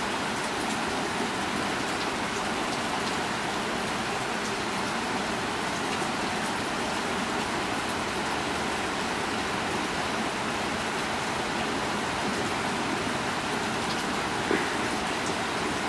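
Steady rain falling, an even hiss with scattered drip ticks, and one sharper tap near the end.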